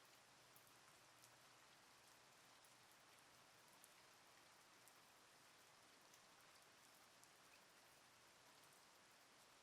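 Faint, steady rain: a soft, even hiss with scattered single drops ticking on a surface.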